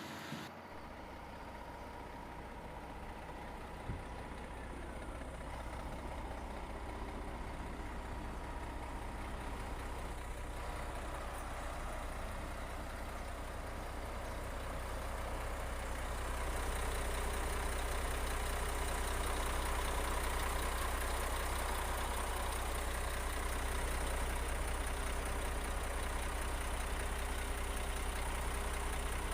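Heavy diesel engine of earth-moving equipment running steadily with a low rumble, growing louder about halfway through; a single knock about four seconds in.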